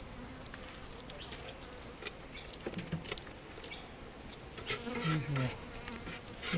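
Honeybees buzzing around an open hive, a steady hum. Near the end comes a run of short scraping sounds, a hive tool working on the wooden frames or box.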